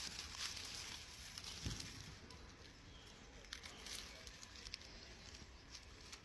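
Faint light crackles and rustling as smoked, dried-out garlic is handled, with one soft thump about a second and a half in.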